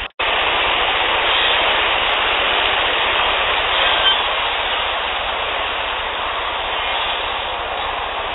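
Steady loud hiss of a handheld field recorder's raw outdoor recording, with a brief faint high tone about four seconds in. The recording cuts out for an instant right at the start, where one clip is spliced to the next.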